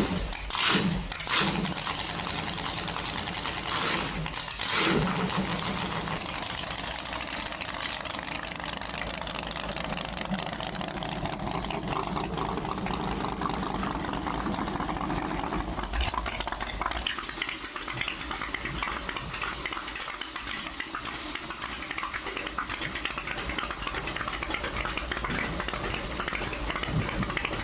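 Fuel running from a pump nozzle into a vehicle's tank as it is refuelled: a steady rushing hiss that follows a few loud knocks in the first seconds.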